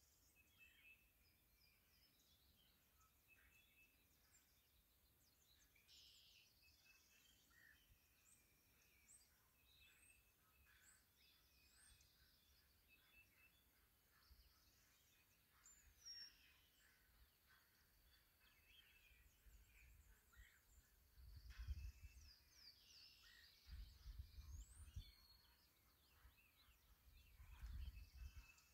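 Faint outdoor birdsong: scattered short chirps and whistled calls of small wild birds, with a few low rumbles in the last third.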